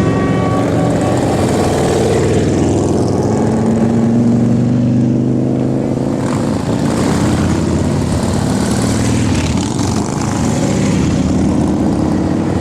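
Several motorcycle engines running together, their pitch slowly rising and falling as they rev and pass.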